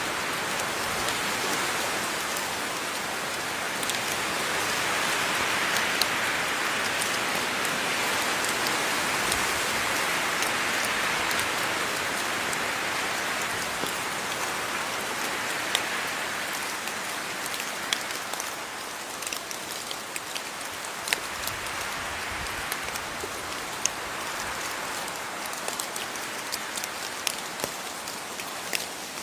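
Steady rainfall: an even hiss of rain with scattered individual drops ticking sharply on a surface, swelling a little in the first half and easing off slightly later.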